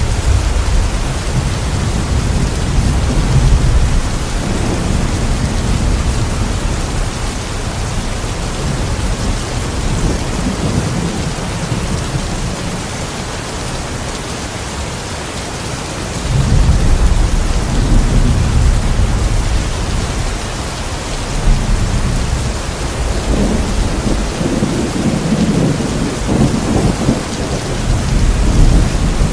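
Steady heavy rain in a thunderstorm, with rolling thunder: low rumbles swell about halfway through and build again near the end.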